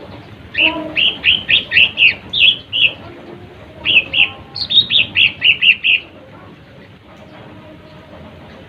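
Lesser green leafbird (cucak ijo mini) singing two bursts of rapid, high chattering notes, each about two seconds long, with a short pause between them. The last few seconds are quiet background hiss. It is the kind of song played to provoke rival birds into singing.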